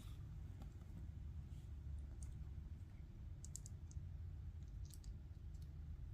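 Faint, scattered clicks of plastic Lego pieces being handled and pressed together, over a low steady hum.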